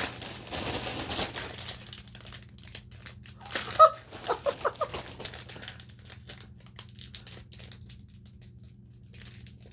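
Packaging being handled and rummaged through: scattered crinkling and rustling with small clicks. A brief pitched sound about four seconds in is the loudest moment.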